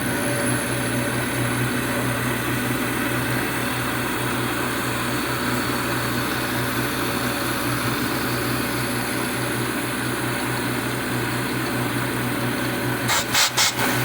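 1980 Shizuoka AN-S CNC milling machine running steadily while milling a slot in 1018 carbon steel, a constant machine hum with steady tones. Near the end a quick cluster of three or four sharp noises stands out as the loudest sound.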